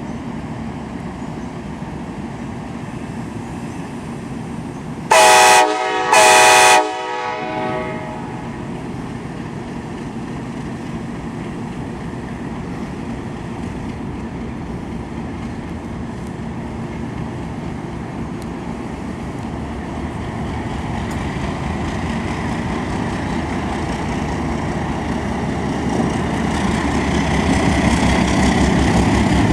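Train horn sounding two short blasts about five seconds in, over a steady rumble of a diesel train that grows louder near the end.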